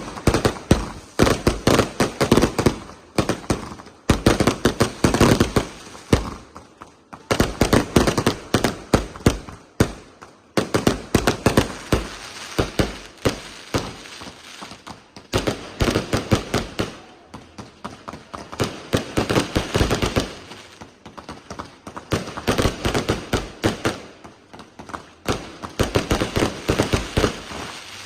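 Small fireworks show going off in rapid volleys of sharp bangs and crackles. The waves each last a few seconds, with brief pauses between them.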